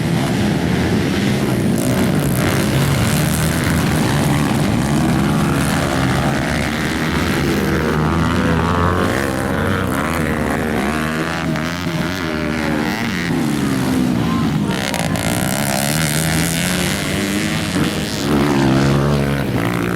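Several motocross bikes racing, their engines revving up and falling back as they go round the track, several engine pitches overlapping.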